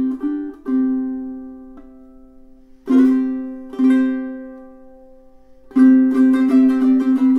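aNueNue UT5K solid koa tenor ukulele being played: a few picked notes, then single strummed chords left to ring out and fade, then quick, rhythmic strumming near the end.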